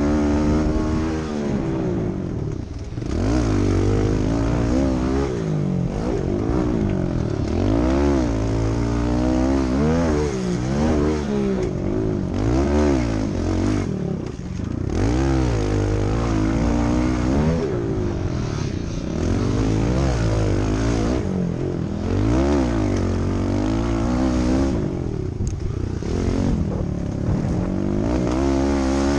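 Kawasaki KLX 110 pit bike's small four-stroke single engine revving up and dropping back over and over as it is ridden, its pitch climbing and falling every second or two.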